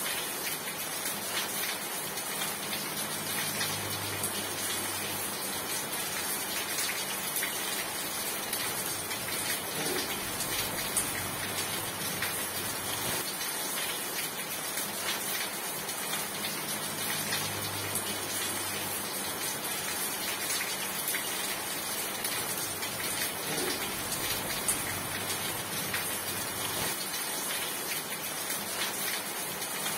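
Steady rain falling, an even dense patter with scattered sharper drops. A faint low hum swells and fades in the background.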